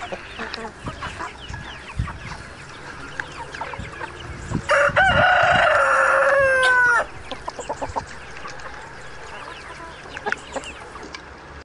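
A flock of hens clucking and chattering. A rooster crows once, loudly, about five seconds in, for about two seconds.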